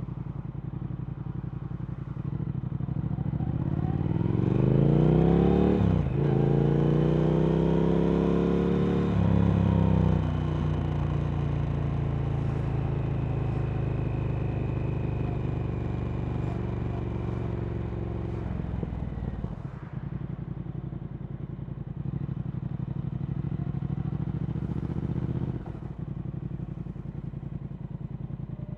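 Triumph Speed Twin 1200's parallel-twin engine through Vance & Hines slip-on exhausts, on the move: it pulls from low revs rising in pitch, with two quick gear changes in the first third. It then holds a steady cruise, and the revs drop back twice later on as the throttle is eased.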